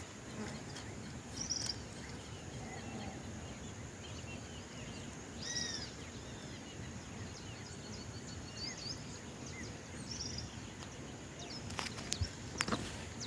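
Wild birds calling now and then over a steady outdoor background hiss: a short run of arched chirps about five seconds in and a series of quick little chirps around ten seconds. A few sharp clicks near the end.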